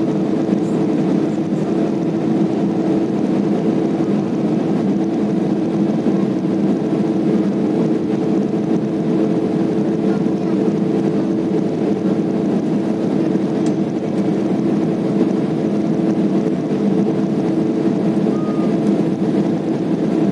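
Steady drone inside an airliner's cabin in flight shortly after takeoff: engine and airflow noise with a constant low hum.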